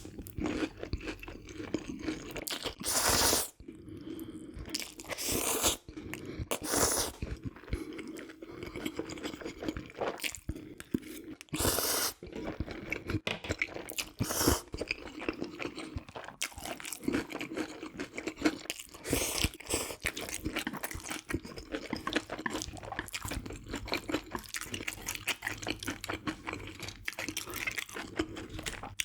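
Close-miked eating: repeated crisp crunching bites and chewing, with several louder crunches spread through.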